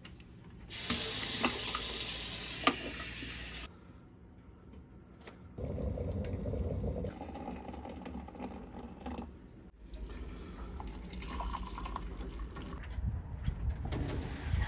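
Running and splashing water, heard in several short stretches that start and stop abruptly. The loudest is a strong rush of water from about a second in to nearly four seconds in, followed by quieter splashing.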